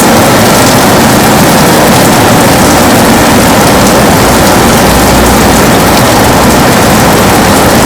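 Heavy rain pouring steadily on a window, a dense, even hiss with a low rumble swelling briefly past the middle.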